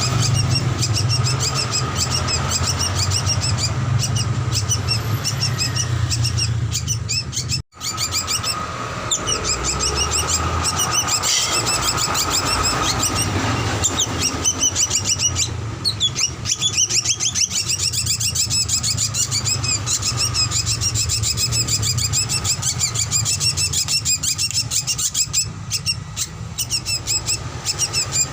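Drongo (srigunting) song played as a masteran recording for training cage birds: rapid, repeated chirping notes in quick runs, over a steady low hum. The sound cuts out completely for a moment about eight seconds in.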